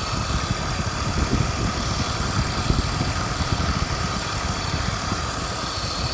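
BMW E39's M54 straight-six petrol engine running steadily, with a steady high whine held over its low pulsing.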